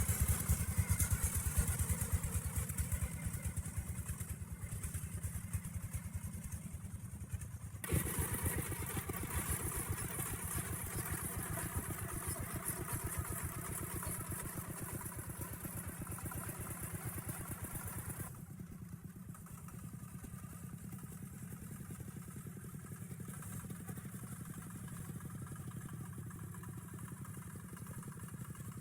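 Tractor engine running steadily under load, with a rapid even firing beat. The sound changes abruptly about eight seconds in and again about eighteen seconds in.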